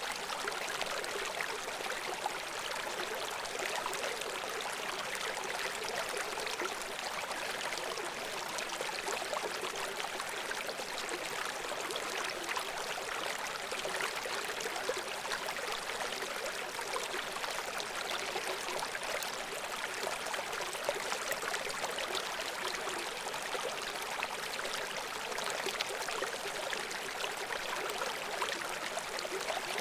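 Babbling brook: shallow water flowing and splashing over stones in a steady, even rush with fine trickling detail.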